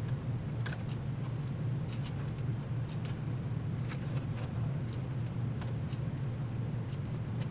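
Steady low hum of running shop machinery, with a few faint scattered clicks and taps from hand work on the basket's hinge.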